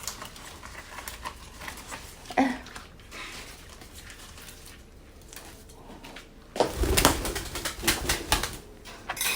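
Pet red-breasted (moustached) parakeet giving a short call, then a couple of seconds of rustling and clattering about two-thirds of the way in.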